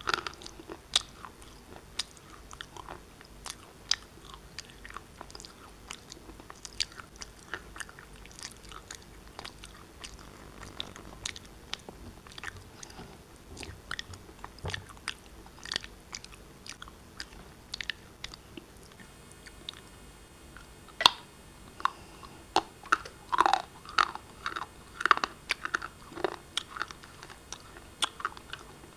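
A person biting and chewing pieces of black shale: a run of short, crisp crunches and cracks. They grow louder and come in quicker clusters about two-thirds of the way through.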